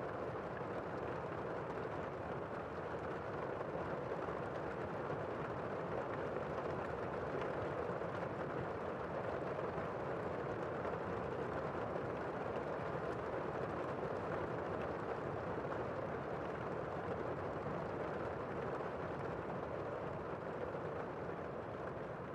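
Heavy rain shower heard from indoors: a steady, muffled rush of rain with no breaks.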